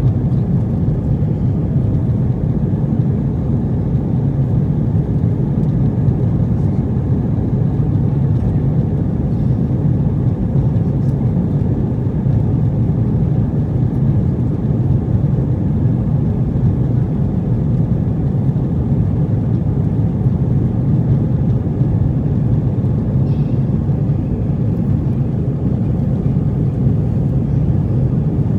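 Steady low rumble of an Airbus A320's cabin in flight after takeoff: engine and airflow noise heard from a passenger seat, even throughout with no changes in pitch.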